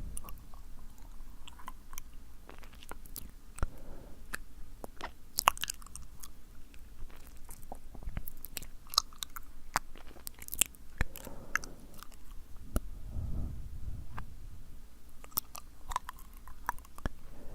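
ASMR mouth sounds close to the microphone: sticky, wet clicks and smacks of the lips and tongue coming irregularly, several a second.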